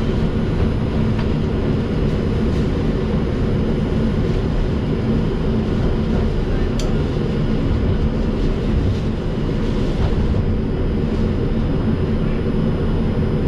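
Steady low rumble and hum inside an R142 subway car standing at a station.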